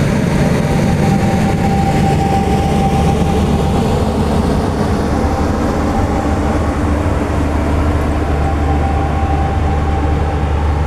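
A train running, a steady low rumble with a steady hum on top.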